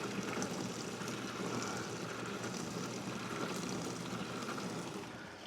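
Pumped rainwater pouring steadily from a hose into a 275-gallon plastic tote, with the transfer pump running underneath.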